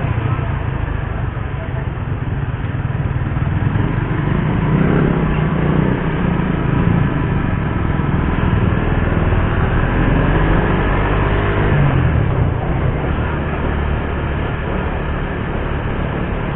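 Suzuki GSX-R150's single-cylinder engine running while riding, its note rising as it pulls and dropping back about twelve seconds in.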